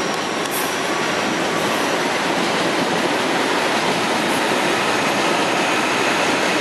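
CPTM series 9500 electric multiple-unit train passing at speed, a steady, even noise of its wheels running on the rails.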